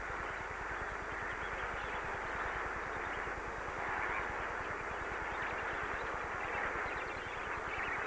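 A large flock of lesser flamingos calling together during their massed courtship display: a steady, dense din of many overlapping calls.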